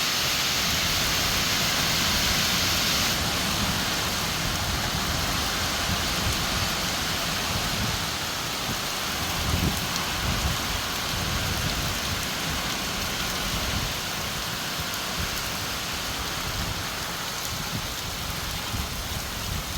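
Steady rain falling, an even hiss, with low rumbles coming and going underneath.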